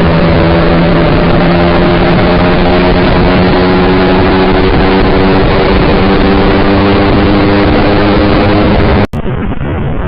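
Yamaha R15 V3's single-cylinder engine with an aftermarket SC Project exhaust, running at a steady pitch while riding, over a steady rushing noise. About nine seconds in the sound cuts off abruptly and gives way to a quieter, duller sound.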